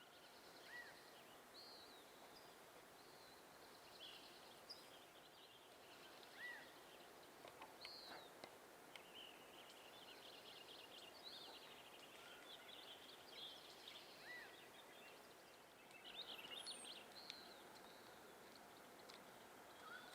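Several wild birds calling and singing faintly: a steady scatter of short chirps, rapid trills and brief arched whistled notes over a soft steady hiss of outdoor background noise.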